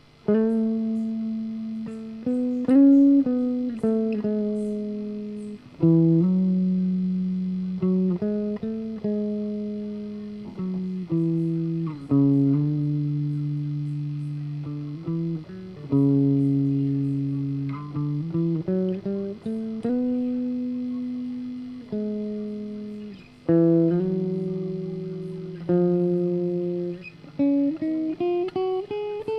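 Solo guitar playing a slow melody of single notes, each plucked and left to ring out and fade, with slides between some notes and a quicker rising run near the end.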